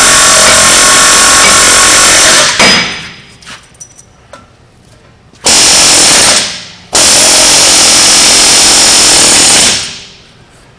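A loud pneumatic tool runs in three long bursts, the last two almost back to back, worked against a seized wheel hub on a Ram 1500 pickup. The hub is barely moving.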